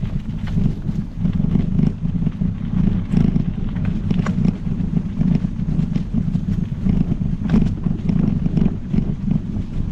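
Wind buffeting the microphone of a bike-mounted camera while riding, over a steady low rumble of tyres on the trail. Scattered clicks and rattles from the bicycle throughout.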